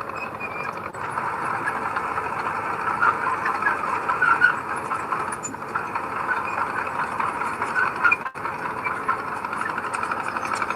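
Crawler bulldozer at work: its engine runs steadily while its steel tracks squeal and clank, louder a few seconds in and again near the end.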